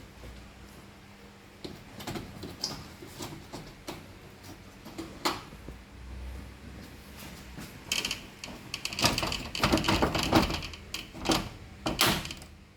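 Cross-head screwdriver backing out screws from a washing machine's control panel, with scattered clicks and rattles of metal and plastic being handled, growing busier in the last few seconds.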